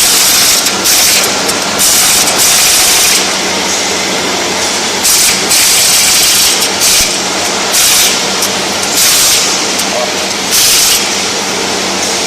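GQ40 rebar cutting machine running with a steady hum, broken by about ten bursts of hiss, each from a fraction of a second to about a second long.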